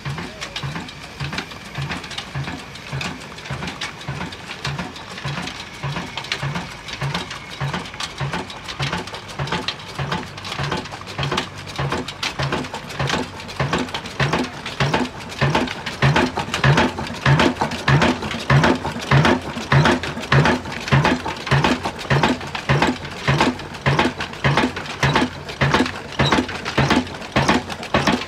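Old Ruston Hornsby diesel engine running slowly, each firing stroke a distinct beat at about two a second, growing louder about halfway through.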